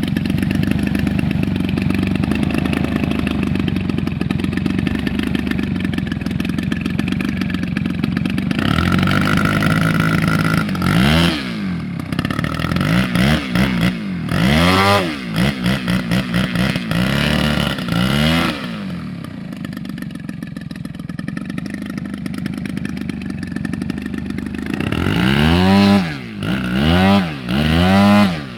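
An engine runs steadily, then is revved up and down over and over, its pitch swinging up and falling back about once a second. It settles to a steadier, lower run, then revs sharply again near the end.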